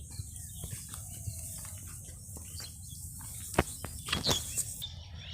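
Faint bird chirps over a steady low rumble, with scattered sharp clicks; the loudest click comes about three and a half seconds in, followed by a few more shortly after.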